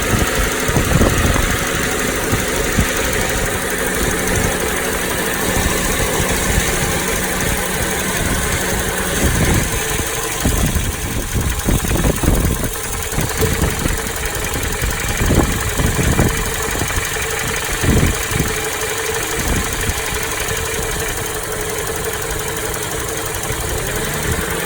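Toyota Noah 60-series engine idling with a rattle, described as a clattering rather than a ticking, coming from the middle of the engine, and not cured by an engine flush and an oil additive. Heavy wind buffets the microphone throughout.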